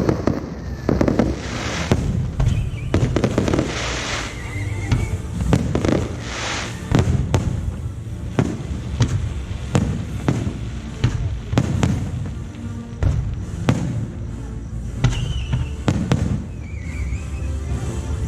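Aerial fireworks shells bursting one after another, sharp bangs in quick irregular succession throughout.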